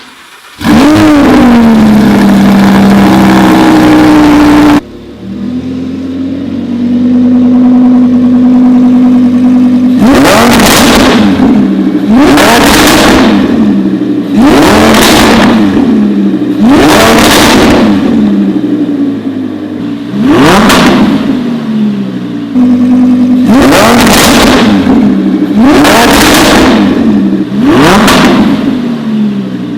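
Lamborghini Huracán's V10 through a Fi Exhaust valved cat-back system. It fires up about half a second in with a loud flare that settles to idle, then from about ten seconds in it is revved in short blips, about eight in all, each rising sharply and dropping back, every two to three seconds.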